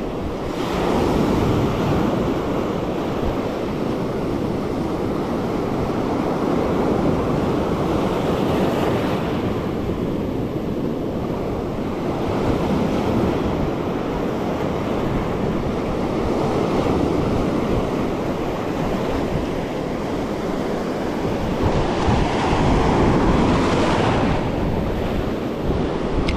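Ocean surf breaking and washing on the shore, swelling and easing several times, with wind buffeting the microphone.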